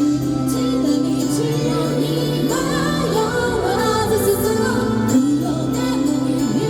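Live J-rock band music with a female lead singer, played loud and continuous.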